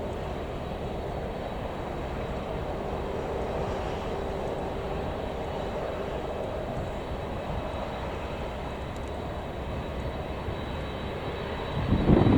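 Boeing 747-400's jet engines running with a steady, even noise and faint humming tones, with a brief louder low rumble near the end.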